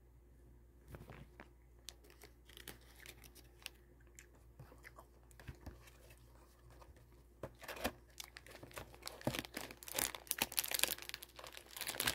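Quiet chewing of a chewy gummy candy with small wet clicks. From a little past halfway, louder crinkling of the candy's plastic packaging takes over.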